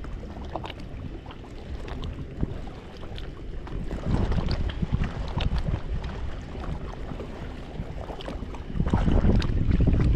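Strong wind buffeting the microphone: a low rumble that swells in gusts, loudest a few seconds in and again near the end, with scattered light clicks.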